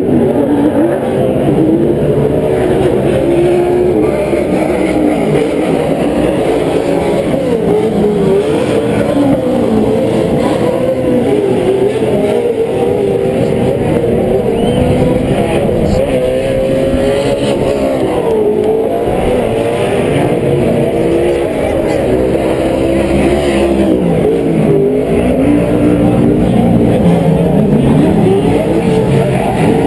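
Several Pro 4 off-road race trucks' V8 engines running hard around the short course, their pitches overlapping and rising and falling as the trucks accelerate and lift.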